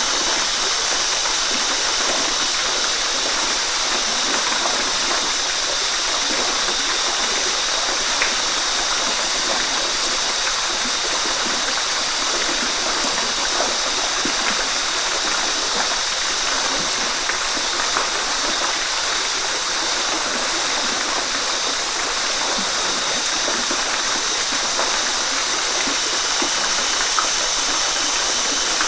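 Waterfall rushing steadily, an even hiss of falling and splashing water with a few faint drips and splashes standing out.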